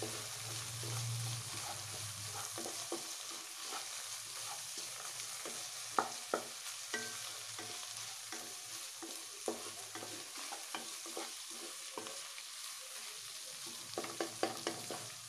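Scrambled egg and tomatoes sizzling in oil in a non-stick kadai while a wooden spatula stirs and scrapes them. Sharp taps of the spatula on the pan come throughout, with a cluster of them near the end.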